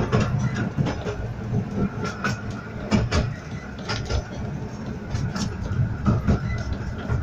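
Miniature steam railway carriage running along the track: a steady low rumble with irregular clicks and knocks from the wheels over the rail joints.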